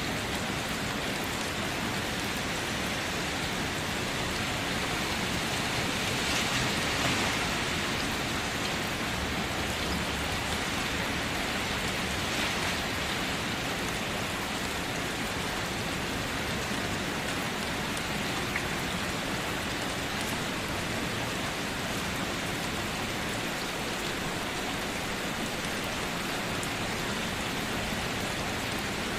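Steady rain falling, an even hiss of many drops that swells slightly about six seconds in.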